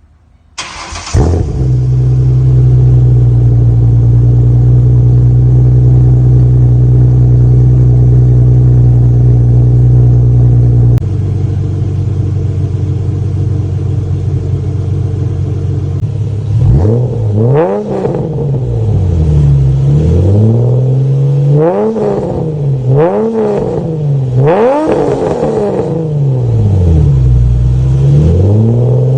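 A Ford Mustang's 4.0-litre V6 starts up and runs at a steady high idle, then drops to a slightly lower idle. It is then revved about four times, the pitch rising and falling with each rev, before it settles back to idle.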